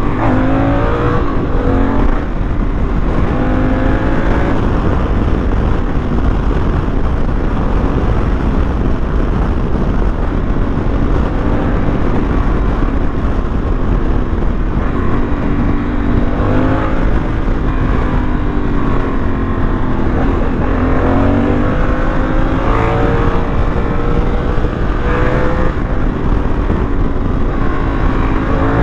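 Honda Africa Twin motorcycle engine heard from the rider's position while riding in traffic, its pitch rising and falling several times as the throttle opens and closes, over a steady rush of wind and road noise.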